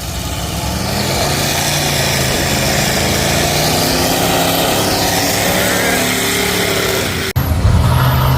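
Mud truck engine revving hard, its pitch rising and falling as the stuck truck tries to power out of the mud. About seven seconds in it cuts off sharply, and a louder engine holds a steady high rev.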